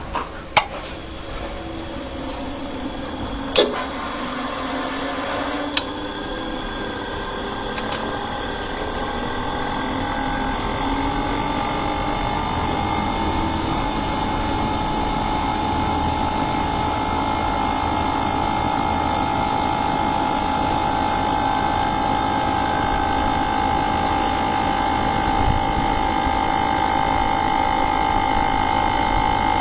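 A few sharp clicks, then a steady machine hum with several constant whining tones that slowly grows louder.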